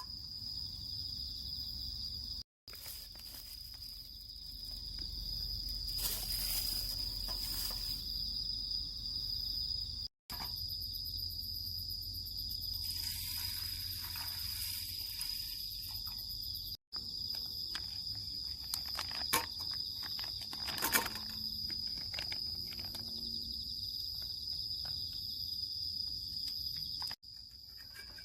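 A chorus of crickets and other late-summer insects keeping up a steady high trill, with a few light clicks about twenty seconds in. The sound drops out briefly three or four times.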